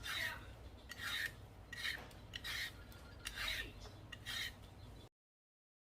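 Rhythmic rasping, scraping strokes, about six of them at an even pace of a little more than one a second. The sound cuts off abruptly near the end.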